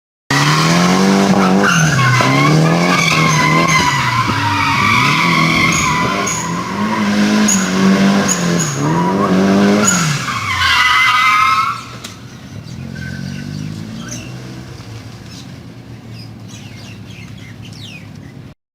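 Drift car sliding: the engine revs swing up and down repeatedly while the tyres squeal steadily. About ten seconds in the revs drop, the squeal fades, and the car runs on much quieter.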